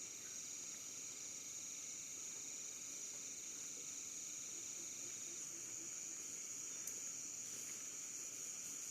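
Insects chirring in a steady, high-pitched drone that does not let up.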